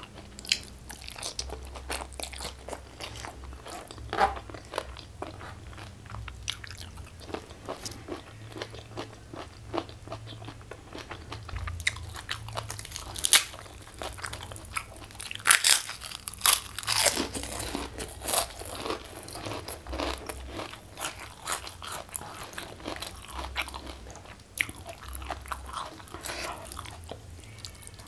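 A person crunching and chewing crispy food close to a clip-on lavalier microphone, with irregular sharp crunches throughout, densest and loudest around the middle.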